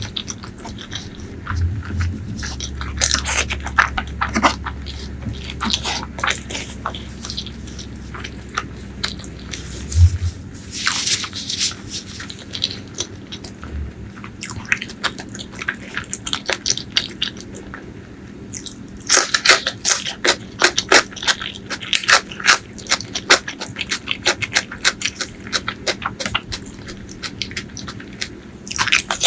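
Close-miked eating sounds: wet chewing, lip-smacking and occasional crunchy bites of spicy pork leg curry with white rice, in an irregular, busy run of clicks and smacks.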